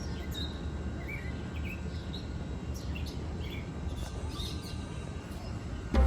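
Small birds chirping and calling, short chirps and quick falling whistles scattered throughout, over a steady low outdoor rumble.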